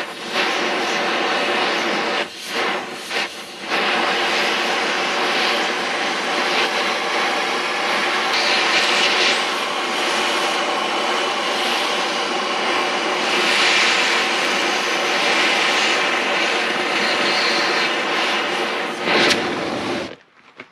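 Angle grinder cutting and grinding steel plate: a steady high whine that dips briefly a few times a couple of seconds in, then cuts off near the end.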